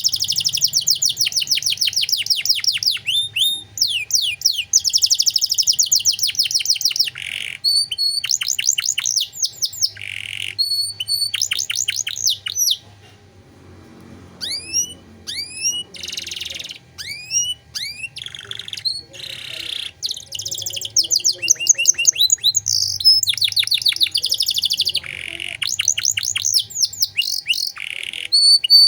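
Domestic canary singing: long fast trills of rising whistled notes, broken now and then by short buzzy rasps, with a brief lull about halfway through.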